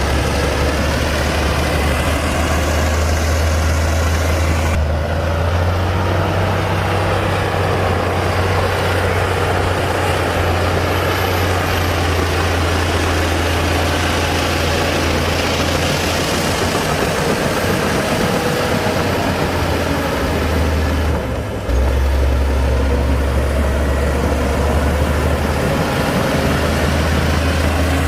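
Komatsu D60-P bulldozer's diesel engine running steadily with a deep drone and mechanical clatter, with a brief drop in level about three-quarters of the way through.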